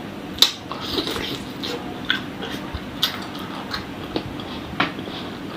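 Close-miked eating of chicken-feet satay in sauce: chewing and gnawing with wet mouth sounds and scattered sharp clicks, the loudest about half a second in.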